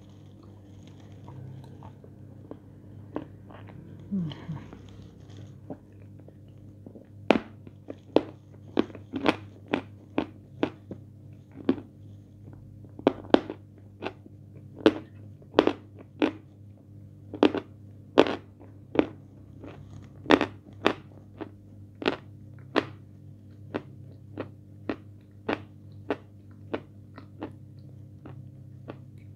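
Close-miked chewing of a biscuit coated in chocolate paste, mouth closed. Sharp, wet mouth clicks and smacks come about once or twice a second, starting several seconds in, over a faint steady low hum.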